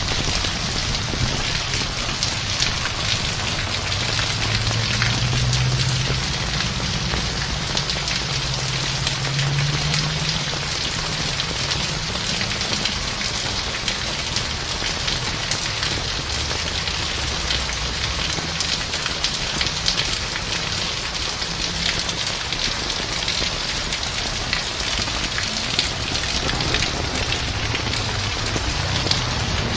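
Heavy rain pouring steadily, a dense patter of countless drops striking surfaces. A low hum swells and fades between about four and eleven seconds in.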